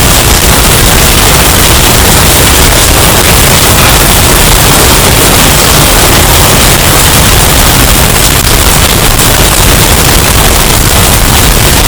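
Hurricane wind sound effect, bass boosted and overdriven into a steady, very loud, distorted roar of noise.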